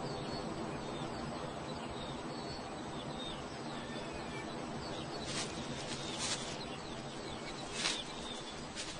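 Small birds chirping and twittering over outdoor background noise. From about five and a half seconds in come four brief, loud, sharp sounds.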